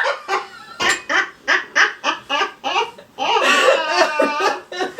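Loud laughter: a run of short, evenly spaced laughs, then a longer drawn-out laugh from about three seconds in.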